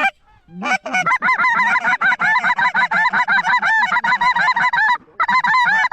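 Snow geese honking: a rapid, continuous run of high-pitched honks, breaking off briefly about five seconds in and then resuming.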